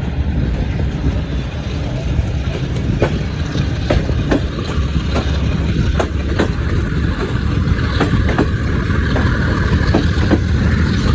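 Pakistan Railways passenger train running along the track with a steady low rumble. From about three seconds in there is a regular click-clack of the wheels over rail joints, two to three knocks a second.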